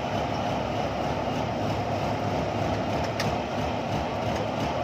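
Rice combine harvester's engine running steadily, with a single short click about three seconds in.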